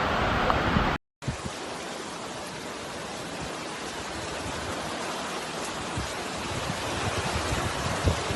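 Steady rushing of water, an even hiss that swells slightly toward the end, after a brief dropout about a second in. The water is floodwater on the streets after heavy rain.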